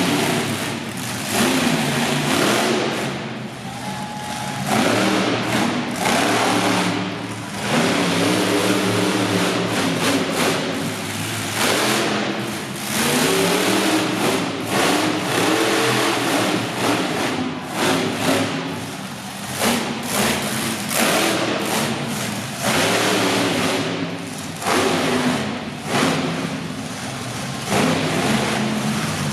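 Monster truck engine revving hard again and again, its pitch climbing and falling with each burst of throttle, with brief dips in between.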